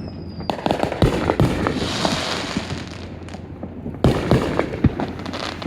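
Fireworks going off: a rapid cluster of bangs and crackles about half a second in, a hissing fizz around two seconds in, then another burst of bangs about four seconds in.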